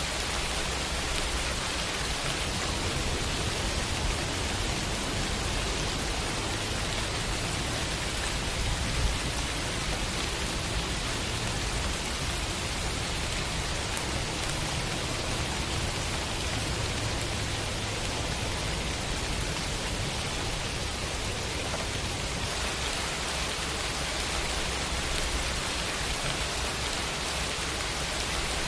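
Steady rain falling, an even hiss with no letup, with one brief louder hit about nine seconds in.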